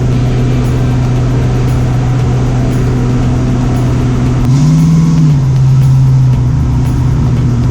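302 Windsor V8 engine of a 1965 Ford Mustang running steadily under way; about four and a half seconds in the revs rise briefly, then fall back and settle to the steady note again.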